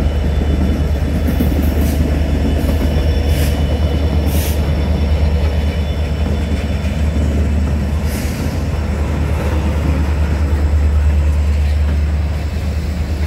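Norfolk Southern diesel freight locomotives passing close by with a loud, steady low rumble, the train's cars rolling past behind them. A few short high hisses cut through, about two to four seconds in and again about eight seconds in.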